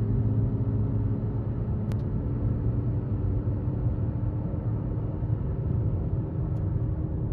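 A car running: a steady low drone with an even hum.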